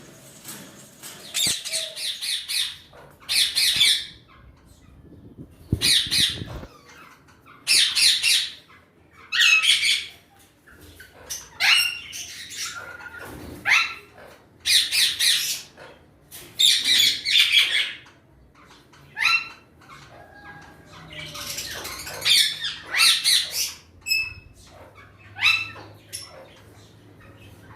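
A pet bird squawking: a string of harsh screeches, each under a second, coming every second or two, with shorter rising chirps mixed in during the second half.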